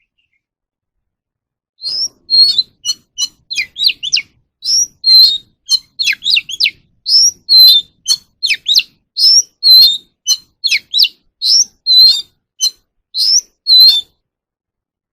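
Oriental magpie-robin singing: a rapid run of short, varied, high whistled notes and chirps, several a second, starting about two seconds in and stopping near the end.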